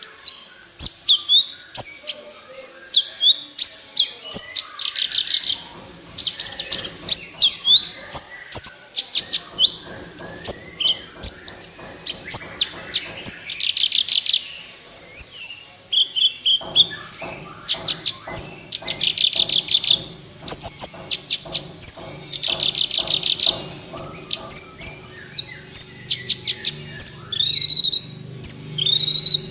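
Kolibri ninja (a sunbird) singing hard and continuously: quick high sharp chirps and down-slurred notes broken by rapid buzzy trills. A faint low steady drone joins about halfway.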